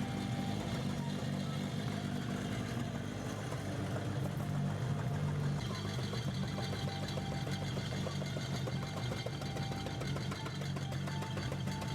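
Toyota AE86 Levin's 4A-GE twin-cam four-cylinder engine idling steadily, with a rapid light ticking over it that becomes more noticeable about halfway through. This is the abnormal noise that appeared when the engine was started after a long rest during restoration.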